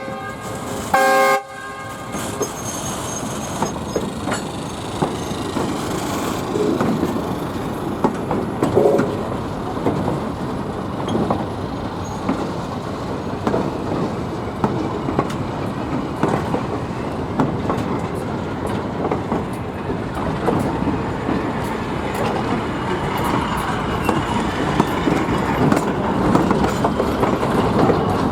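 Short blast of the Alco RS-1 locomotive's five-chime S5T air horn about a second in, then the train rolling over the crossing with a steady rumble and the wheels clicking over the rail joints.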